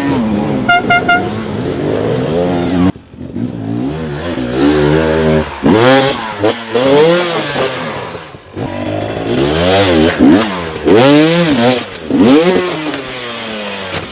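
Dirt bike engine revving in repeated bursts, its pitch rising and falling again and again as the throttle is worked. A horn toots a few short times about a second in.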